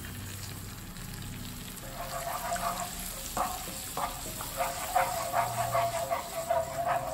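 Garlic, chilli and sauce sizzling in hot oil in a nonstick wok. From about two seconds in, a plastic spatula stirs and scrapes against the pan in repeated strokes.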